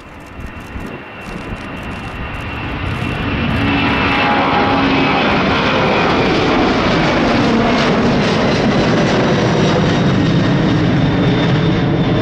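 Boeing 767-300 freighter's twin jet engines at takeoff thrust on the takeoff roll, growing steadily louder over the first four seconds, then holding a loud, steady rumble.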